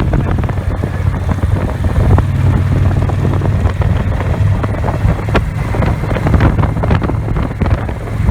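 Victory Vision's V-twin engine running steadily at riding speed, with wind buffeting the microphone.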